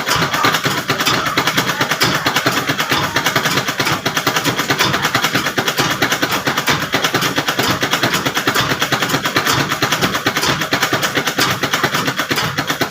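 Sewing machine running at a steady speed, a fast, even stitching rhythm that stops abruptly at the end.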